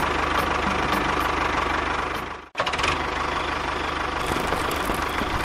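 Small engine running with a fast, even ticking, cutting off abruptly about two and a half seconds in and starting again straight away.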